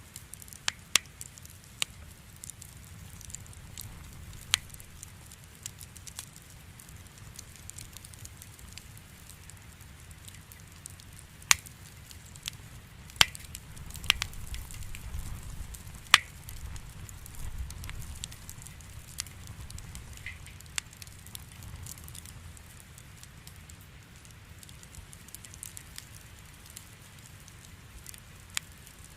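Wood campfire burning, the firewood crackling with irregular sharp pops over a low, steady rumble of flame; a few louder pops come near the middle.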